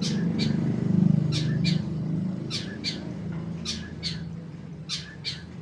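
Long-tailed shrike (cendet) giving harsh, sharp call notes in pairs, five pairs about a second apart. A low rumble runs underneath, loudest in the first two seconds.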